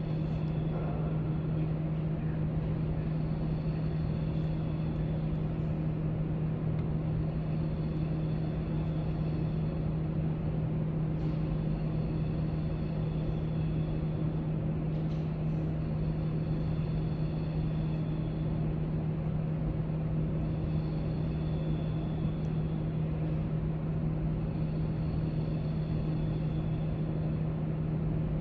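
Steady library background noise: a constant low hum and rumble, like building ventilation, with a few faint ticks.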